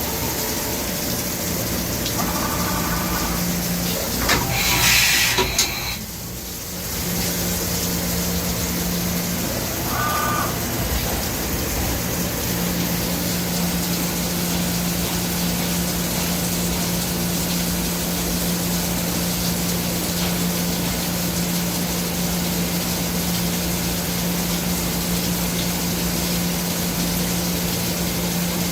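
Milling spindle of a Doosan Puma MX1600ST CNC turning and milling center running steadily at 10,000 RPM: an even hum over a whirring, rushing noise. A brief louder rush of noise breaks in about five seconds in. It runs smooth, described as sounding very good.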